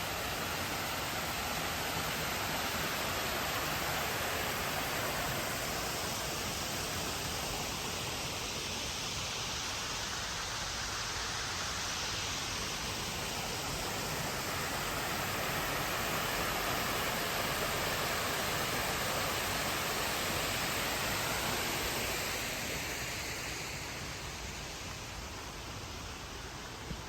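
Water falling over a small creek dam, a steady rushing that grows a little quieter over the last few seconds.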